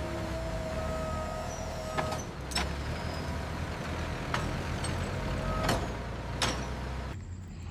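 A heavy vehicle's engine running, with a hiss and several sharp clicks, that starts and cuts off abruptly like an edited-in sound effect.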